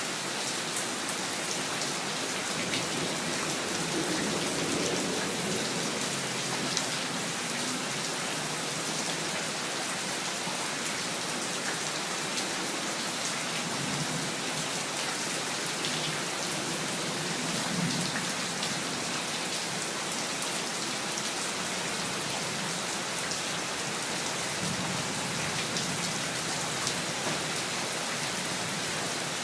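Steady rain falling, with many fine drop ticks over an even hiss, and a few soft low swells now and then.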